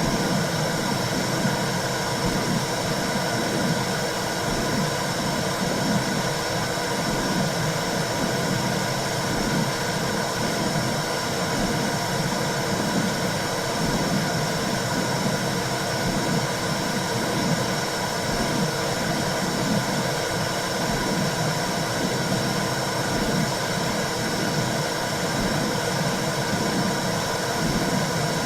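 Womb sound for soothing a newborn: a steady whooshing rumble with hiss over it, used as white noise to calm a crying baby. It goes on without a break at an even level.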